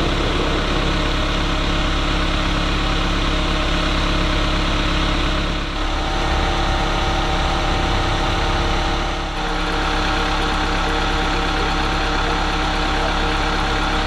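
Diesel engines of a line of railway track maintenance machines idling steadily, several engine tones layered together.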